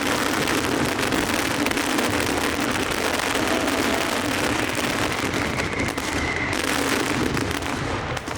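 Large night aerial fireworks display (a Valencian castillo) going at full intensity: a dense, unbroken crackle of many shells and crackling stars bursting at once.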